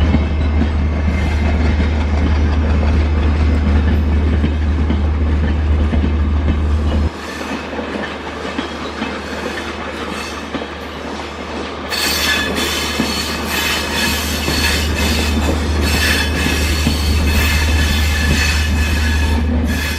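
Train running along the track with a heavy low rumble, easing off about seven seconds in; from about twelve seconds in, wheels squeal and clatter loudly.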